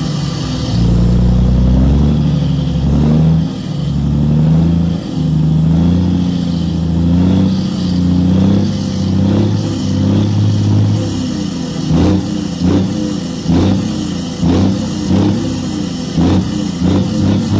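Wheel loader's diesel engine revving up and down as it works. In the second half, a run of sharp knocks at about one or two a second sounds over the engine.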